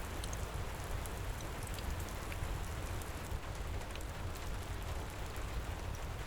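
Steady heavy rain pouring, with a deep low rumble under the hiss and scattered faint sharp ticks throughout.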